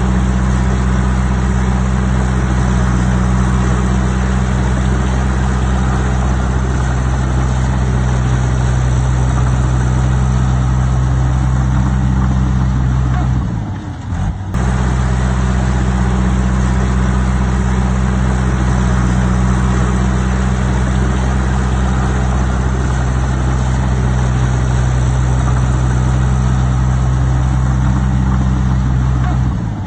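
Heavy diesel engine of earthmoving machinery running steadily at an even pitch. It briefly drops away about halfway through, then comes back just the same.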